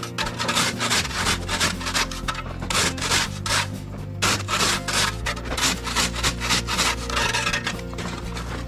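Rapid, evenly repeated scraping or rasping strokes, about three a second, over background music with sustained low notes.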